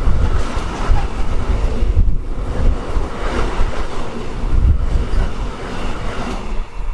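Train passing on the line, a loud, steady rumble of wheels on track that swells and eases.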